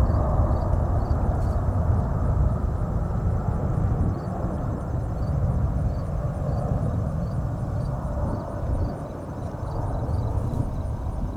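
Jet airliner engine noise as an aircraft passes: a broad, low rumble that slowly fades.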